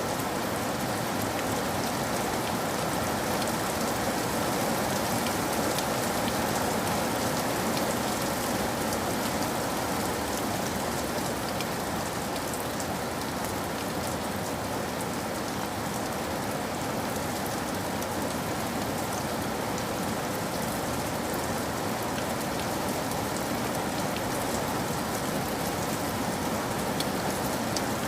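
Steady rainfall, an even hiss with scattered small drop taps.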